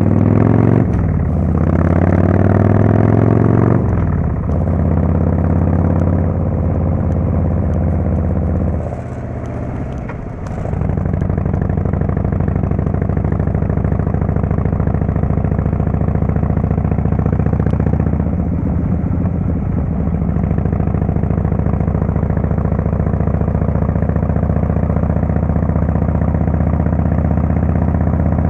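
Harley-Davidson Fatboy S Screamin' Eagle Twin Cam 110 V-twin through a Kesstech exhaust. It is revved up and down several times, then settles to a steady idle from about ten seconds in.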